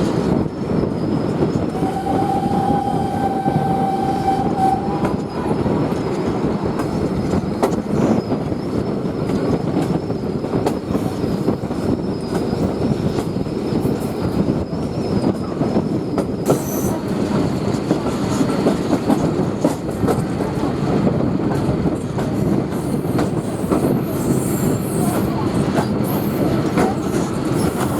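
Steam-hauled passenger train running along the track: a steady rumble with the clickety-clack of wheels over rail joints. A steady whistle note sounds for about three seconds near the start.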